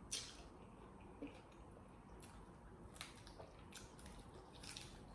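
Faint wet chewing and mouth smacks from someone eating, with about six short clicks scattered through.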